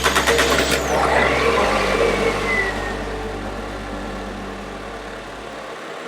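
Car engine starting: a rapid rattle for about a second, then the engine revs up and falls back, and runs on more steadily before fading near the end.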